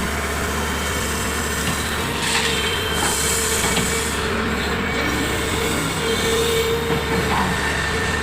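Large Komatsu excavator working: steady engine and hydraulic whine with scattered metallic knocks, and a brief hiss about three seconds in.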